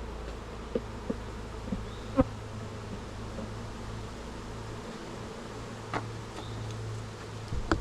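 Honeybees buzzing steadily around an opened hive, with a few short sharp clicks and knocks from handling the hive.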